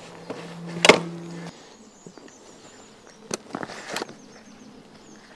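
A flying insect buzzing steadily close by, stopping about a second and a half in. A sharp knock comes just before the buzz stops, and two fainter clicks follow a few seconds later.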